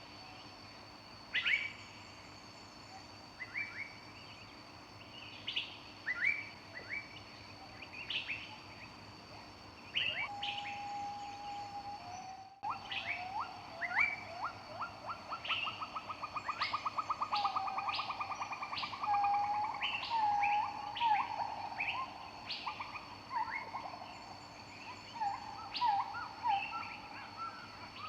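Several songbirds singing in a forest. Short chirps come every couple of seconds, and from about ten seconds in another bird joins with steady whistled notes and a fast trill. A faint high steady tone runs underneath.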